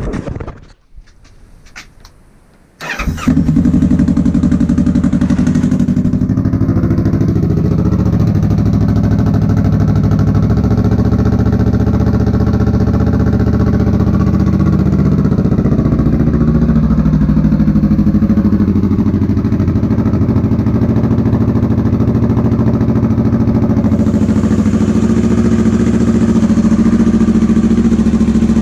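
Kawasaki Vulcan S parallel-twin engine starting about three seconds in after a few faint clicks, then running steadily through a Delkevic slash-cut aftermarket exhaust on its first start since fitting.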